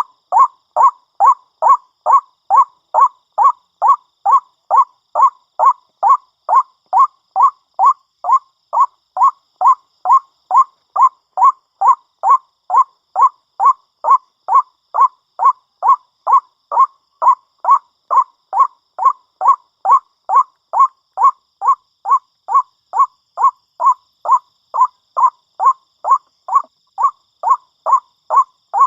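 White-breasted waterhen's 'ruak' call, one short note repeated about twice a second at a very even pace.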